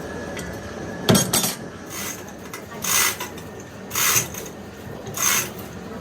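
A sharp metallic clank with a short ring about a second in, then a second knock. After that come regular scraping strokes on metal, about one a second, each a short hiss-like rasp.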